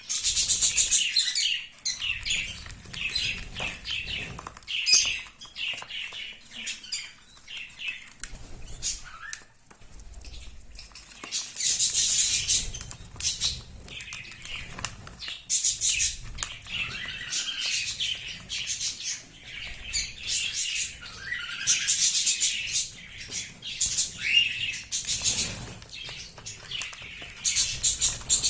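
Young budgerigars chirping, broken by several loud bursts of wing flapping about a second long.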